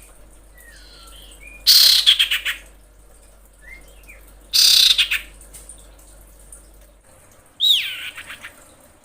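Female common iora calling: three loud, harsh calls about three seconds apart, the last sliding down in pitch, with faint short chirps between them. This is the calling of a female in breeding condition, used to draw a male.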